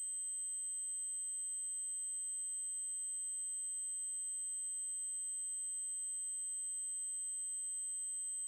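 A steady, high-pitched synthesized 8192 Hz triangle-wave tone, held at one pitch and level without a break.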